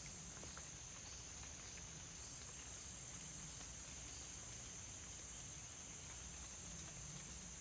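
Quiet forest ambience after rain: a steady high-pitched hum, like an insect chorus, with a few faint ticks and taps scattered through it.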